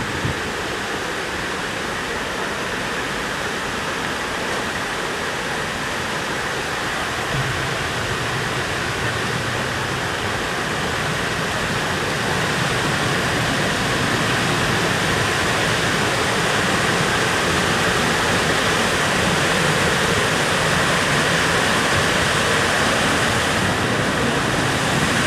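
Water of a waterfall and creek rushing steadily, growing a little louder about halfway through.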